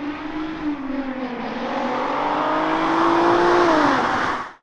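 Audi A3 3.2 VR6 engine accelerating hard, its note climbing steadily for about three and a half seconds, then dropping just before it cuts off.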